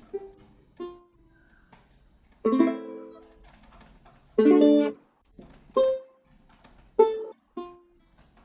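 Ukulele played fingerstyle, slowly and with short pauses: single plucked notes that ring and fade, and two full strummed chords about two and a half and four and a half seconds in.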